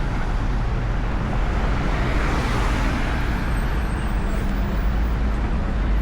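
Street traffic: a steady rumble of engines and tyres, swelling as a vehicle passes close about two to three seconds in.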